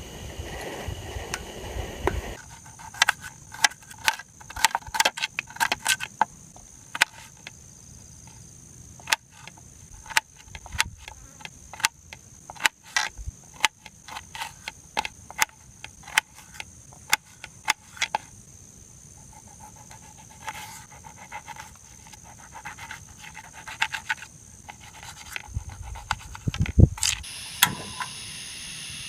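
Rapid sharp metallic clinks and knocks, many with a short ringing tone, coming thick for the first two thirds and then sparser with one loud knock near the end, over a steady high-pitched insect drone.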